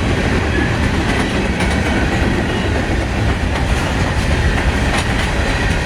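Cars of a CSX manifest freight train rolling past: a loud, steady rumble with scattered clicks of wheels over the rail joints.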